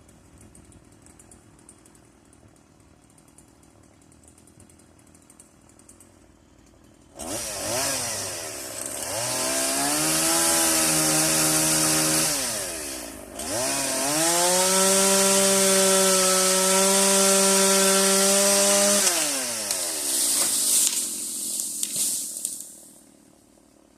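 Stihl two-stroke chainsaw ticking over faintly, then opened to full throttle about seven seconds in, held at a high steady pitch, dipping briefly and run up again for about five seconds while cutting wood, then dropping back to idle near the end.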